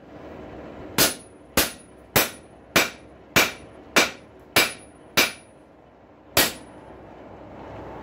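Blacksmith's hand hammer striking a rail spike being forged, nine ringing blows about one every 0.6 s, the last coming after a short pause.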